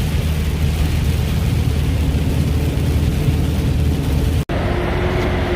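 Truck engine droning steadily inside the cab at highway speed, under a hiss of tyres and spray on a rain-soaked road. About four and a half seconds in, the sound cuts off abruptly and returns as a duller engine drone with far less hiss.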